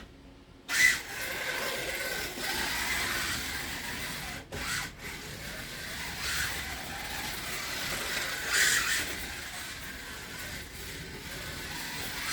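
1/24 scale slot car with a scratch-built brass chassis running laps: its small electric motor and running gear whirring around the track. It starts suddenly about a second in, cuts out twice briefly near the middle, and surges louder at the start and again about two-thirds through.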